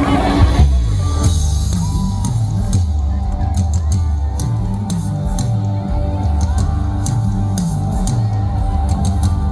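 Live band playing an instrumental passage: a bass line moving note to note under a drum kit with regular cymbal strokes.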